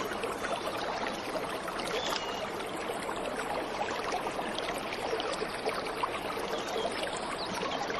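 Waterfall's steady rush of falling water, even and unbroken, with a brief faint bird note about two seconds in.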